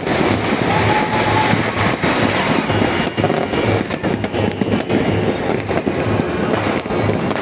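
A dense, continuous barrage of fireworks and firecrackers, many overlapping bangs and crackles merging into a steady rumble.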